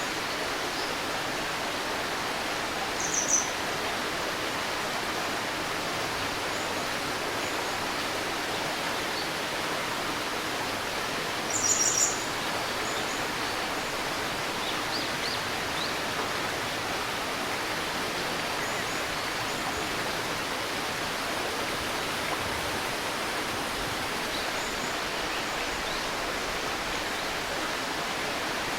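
A river babbling steadily, with a few short high bird chirps over it; the clearest come about 3 seconds in and about 12 seconds in.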